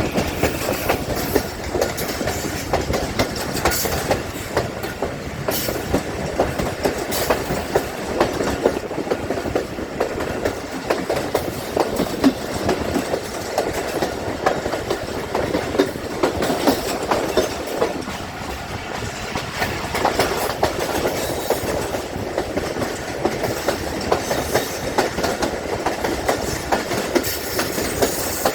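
Millat Express passenger train rolling through the station, its wheels giving a continuous rapid clickety-clack over the rail joints.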